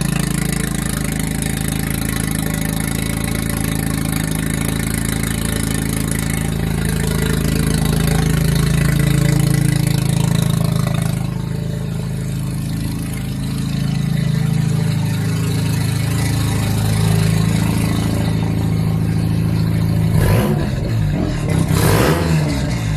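Mazda RX-7 FD3S twin-rotor rotary engine, newly converted to a big single turbo with no exhaust past the downpipe, running loud and steady at a low idle on its first run. About twenty seconds in, the note turns suddenly uneven and pulsing.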